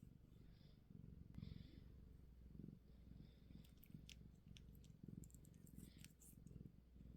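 Domestic cat purring faintly and steadily, close by, in swells that rise and fall with its breathing. A few faint clicks come in the second half.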